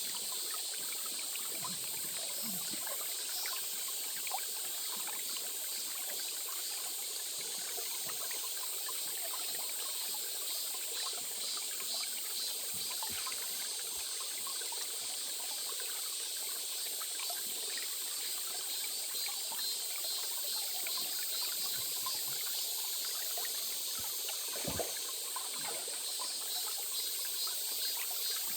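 A small stream trickling steadily.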